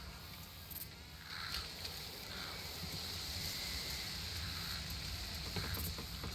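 Outdoor nature ambience: a steady high-pitched drone that grows stronger about a second in, with short calls repeating about once a second over a low rumble. A few sharp clicks come near the end.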